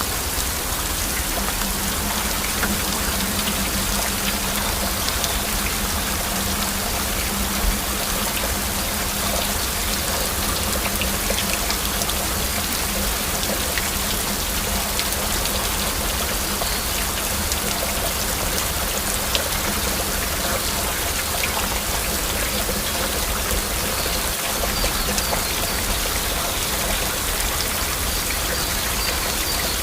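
Heavy rain falling steadily, a dense even hiss with scattered sharper drop impacts, and a faint low hum in the background for much of it.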